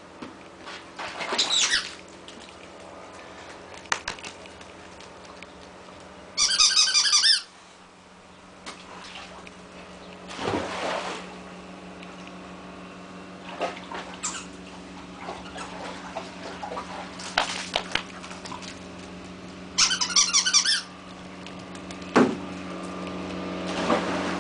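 Rapid squeaking of a husky puppy's paws or body rubbing against a wet plastic pool, in two bursts about a second long, with shorter swishes and knocks between them.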